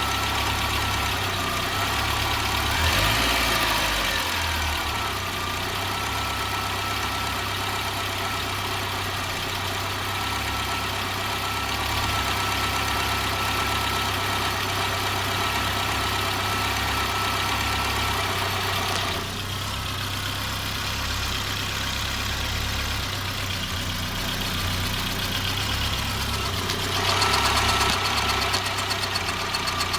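Peugeot 205 GTI four-cylinder engine running at idle, blipped briefly about three seconds in and louder again near the end. The owner suspects a noise from the top end of the engine.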